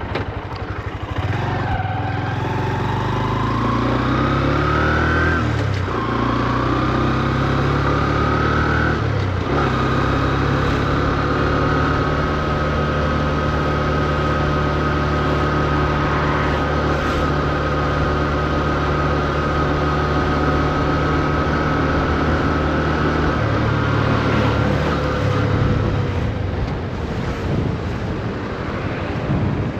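Honda CB125F's single-cylinder engine pulling away: revs rise, drop at a gear change, rise again and drop at a second shift, then hold steady while cruising. Near the end the revs fall as the throttle is rolled off. The revs stay low because the new engine is being run in.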